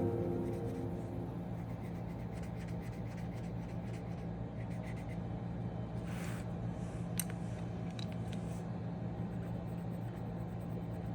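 Coloured pencils scratching faintly on paper, a few short strokes and taps around the middle, over a steady low hum.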